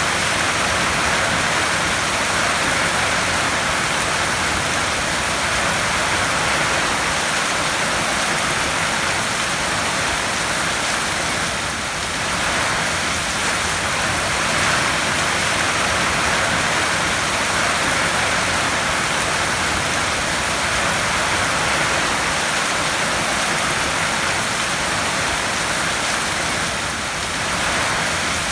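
Heavy rain drumming steadily on a metal roof, a dense hiss with gentle swells in strength.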